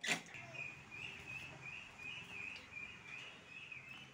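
A small bird chirping over and over at an even pace, about three short high chirps a second. A sharp knock right at the start is the loudest sound.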